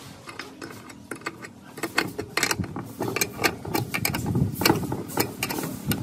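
Irregular mechanical clicking and knocking of the metal parts of an old electric meat mincer, growing louder and busier about two seconds in.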